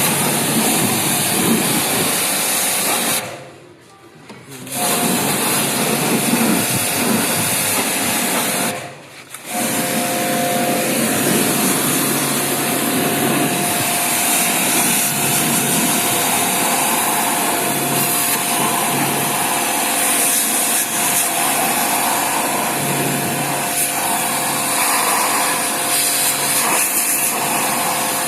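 Electric pressure-washer pump running with a loud hissing water jet, typical of cleaning an air conditioner's coils. It cuts out twice briefly, about three seconds in and again near nine seconds, then runs steadily.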